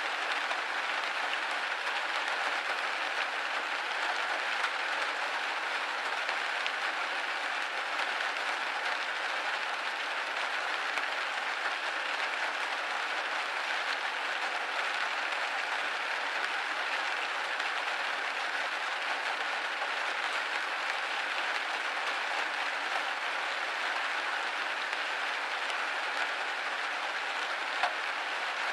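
Steady rain pattering on a window pane, a dense even hiss of many small drops with no thunder or gusts.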